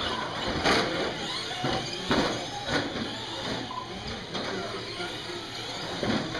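Radio-controlled racing trucks running around the track, their motors whining up and down in pitch as they accelerate and slow, with a few sharp knocks as trucks land jumps or hit the boards.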